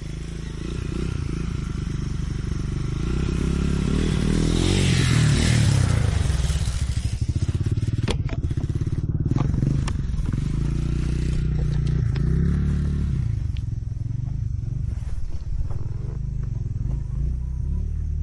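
Motorcycle engine running under way, its note rising and falling as the throttle changes, with wind noise swelling a few seconds in and a few sharp clicks or knocks partway through.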